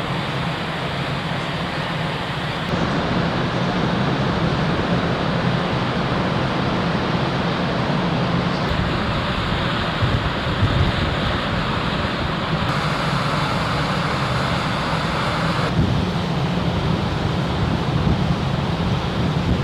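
Wind and sea noise aboard the car ferry Ishikari under way, over a steady low drone from the ship's engines. The noise shifts abruptly a few times, as if from cut to cut.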